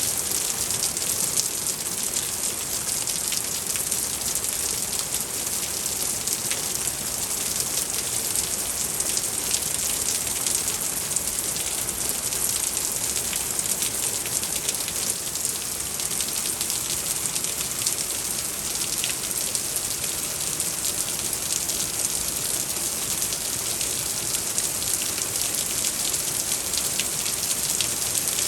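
Heavy spring rain pouring steadily, with many small sharp ticks of drops striking a hard surface.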